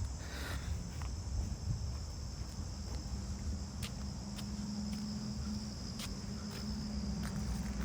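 Steady high-pitched insect chorus, like crickets, over a low rumble, with a few faint clicks.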